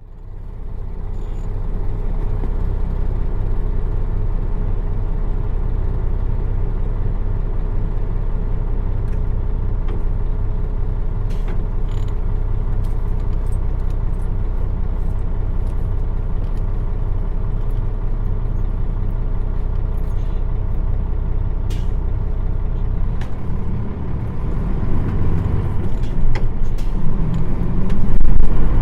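Nissan Diesel PF6 six-cylinder diesel bus engine idling steadily, heard from inside the bus, with scattered clicks and rattles. About 24 seconds in, the engine rises in pitch and grows louder as it revs up.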